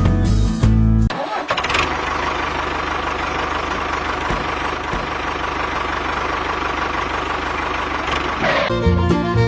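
Small engine of a homemade mini tractor running steadily with a rapid, even firing pulse. It comes in about a second in, when the music cuts out, and stops near the end, when the music returns.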